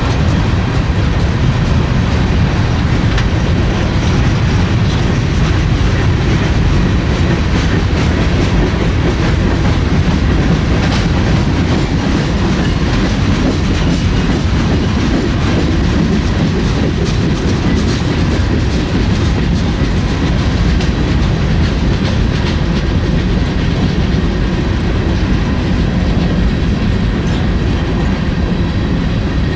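Freight train cars rolling past at a steady pace: a loud, even rumble of wheels on rail with scattered clicks over the rail joints.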